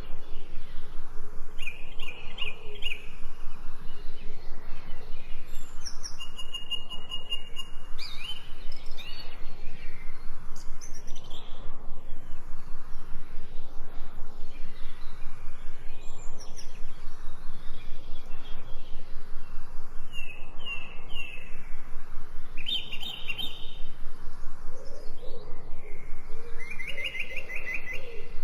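Birds chirping and singing in short, scattered phrases over a steady, evenly pulsing background of natural ambience.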